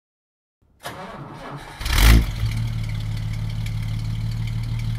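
1953 Chrysler's engine starting: it turns over, catches with a quick rev about two seconds in, then settles into a steady idle.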